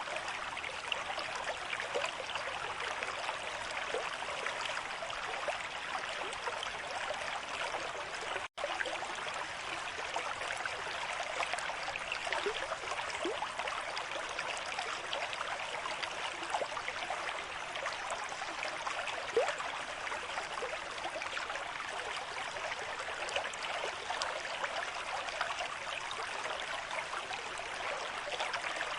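River stream with moderate flow: water running steadily with small gurgles. It cuts out for an instant about eight seconds in.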